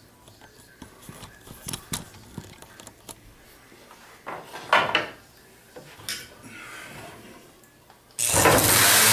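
Light clicks, knocks and rubbing as the sander is handled on the bench. Then, about eight seconds in, the Bosch random orbital sander starts suddenly and runs at full speed, set off by accident while the switch was being played with.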